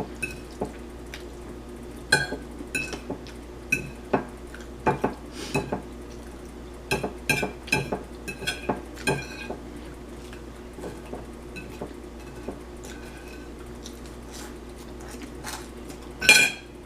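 Fork clinking and scraping against a plate of spaghetti in irregular, scattered clicks, with a louder clatter near the end.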